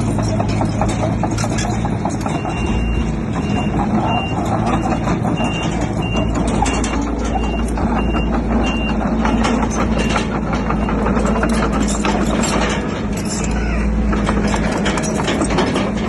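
Heavy earthmoving machinery's diesel engine running, with clanking, and a reversing alarm beeping about twice a second from about two seconds in until about ten seconds in.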